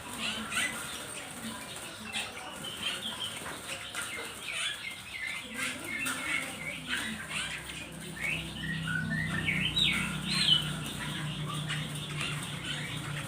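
Many small birds chirping and twittering at once in short rising and falling calls, with scattered short clicks. A low steady hum comes in about eight seconds in.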